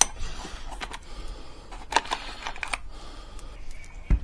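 Scattered light metallic clicks and clinks of a car part and hand tools being handled while refitting a piece. The sharpest clicks come at the very start and about two seconds in.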